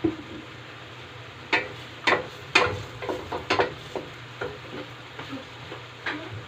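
Oil sizzling in a frying pan while saluyot (jute leaves) are sautéed, with a spatula scraping and knocking against the pan in a quick run of strokes between about one and a half and four seconds in, and once more near the end.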